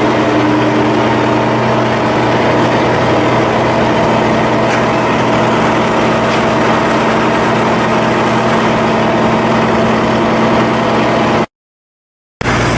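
Large ship's engine running steadily with an even, many-toned hum. It cuts to silence for about a second near the end, then a steady running sound starts again.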